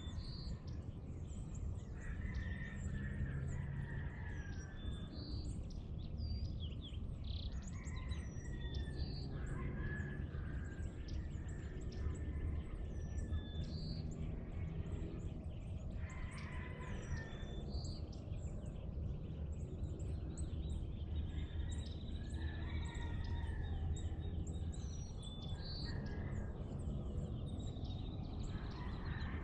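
Several wild birds singing and calling together in a dawn chorus: many short high chirps and repeated whistled phrases overlapping, over a steady low rumble.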